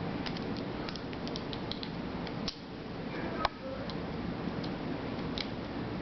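Small metal parts of a Glock 27's trigger assembly clicking and ticking as they are handled and fitted, with one sharper click about three and a half seconds in, over a steady low background noise.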